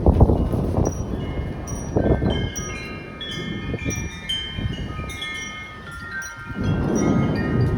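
Metal wind chimes ringing in storm gusts, many overlapping clear tones, over the low rumble of thunder that hits hardest right at the start and swells again near the end.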